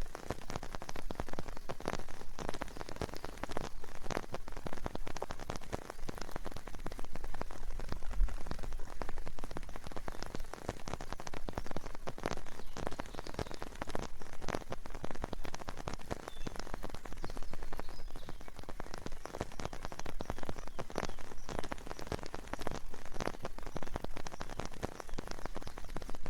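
Steady rain, with dense, irregular drops striking a nearby surface.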